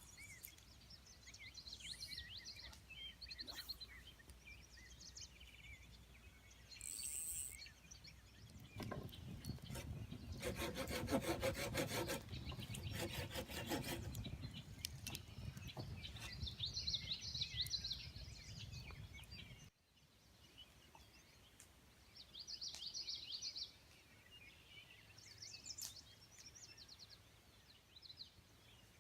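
Songbirds chirping, with a stretch of rhythmic rasping strokes of wood being sawn about nine seconds in that lasts several seconds.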